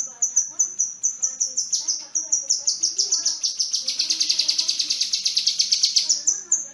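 Kinoi bird singing: a fast run of high chirps, several a second, that speeds up and drops in pitch into a dense rapid trill through the middle, then slows back to single high chirps near the end.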